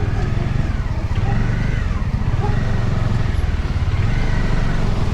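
Bajaj Dominar 400's single-cylinder engine running under way, its note rising and falling a little with the throttle, over road and wind noise.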